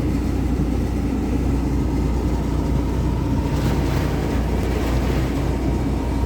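Very heavy rain pounding on a semi-truck's cab, heard from inside the cab, over a steady low rumble.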